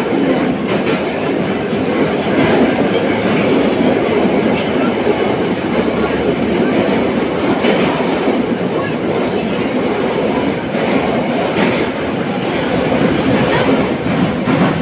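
An 81-717.5 metro car heard from inside while it runs at speed through the tunnel: a steady loud rumble of wheels and running gear, with a few faint clicks from the rails now and then.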